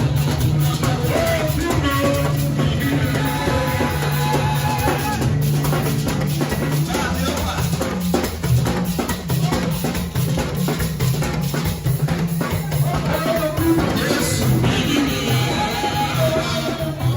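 Band music with a steady drum-kit beat, sustained bass notes and guitar.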